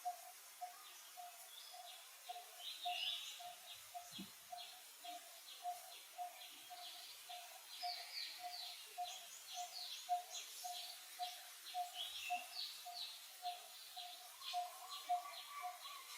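Outdoor bird calls: one bird repeats a short low note steadily, about two or three times a second, while higher, fast chirping series come and go over it.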